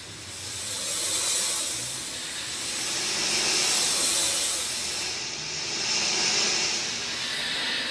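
Rain falling as a dense, even hiss that swells and eases every two or three seconds, as if in gusts.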